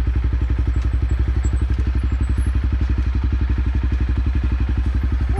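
Dirt bike engine running slowly at a steady low speed, an even, rapid chugging pulse.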